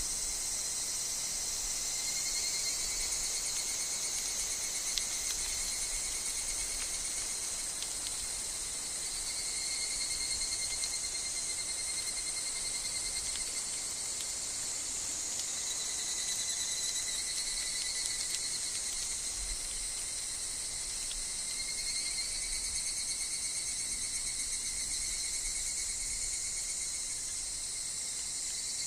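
Higurashi (evening cicadas) calling in overlapping, finely pulsed phrases of a few seconds each, over a steady high-pitched chorus of insects.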